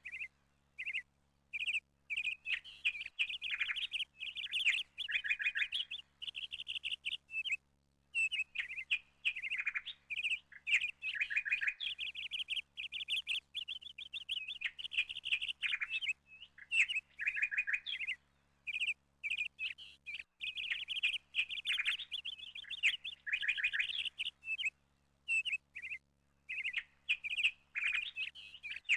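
Small birds chirping and twittering in quick high runs of chirps, each run lasting a second or two with brief silent pauses between them.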